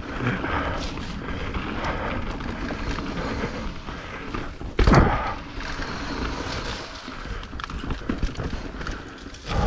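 Mountain bike rolling over a wet dirt trail: steady tyre and riding noise with many small knocks, and one heavy thud about five seconds in.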